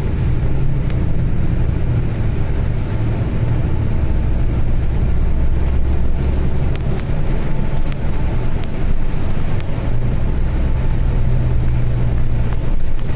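Steady low drone of a Volvo B8 bus's diesel engine and road rumble heard from inside the moving bus, with a few faint clicks and rattles.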